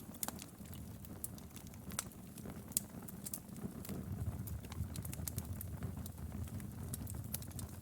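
Wood fire burning in a fireplace, with irregular sharp crackles and pops over a low, steady rumble of flames; one louder pop near the middle.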